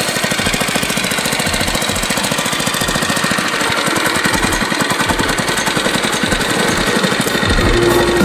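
80cc four-stroke single-cylinder go-kart engine running steadily, with a rapid, even chatter of firing pulses.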